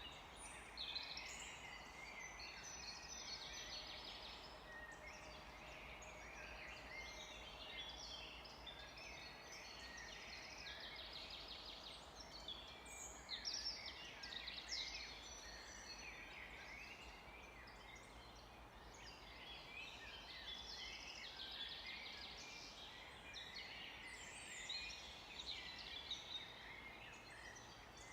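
A chorus of many birds singing and calling at once, overlapping quick chirps and trills, over a faint steady low hum.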